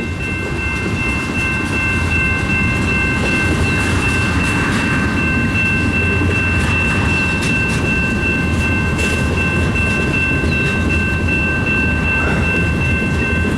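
Freight cars of a mixed freight train rolling past at trackside: a steady rumble of wheels on rail with occasional clicks. A few steady high-pitched tones run over it throughout.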